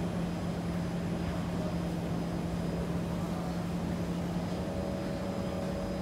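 Steady mechanical hum inside a Kawasaki C151 MRT train car, carrying a low steady tone, with a higher steady tone joining about four and a half seconds in.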